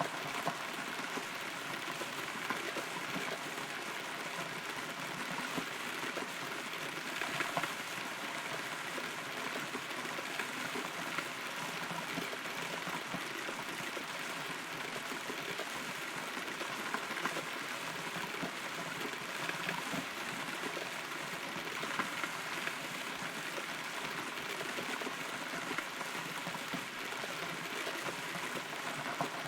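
Steady rain heard from inside a hollow rotten tree: an even hiss with occasional louder single drops ticking through it.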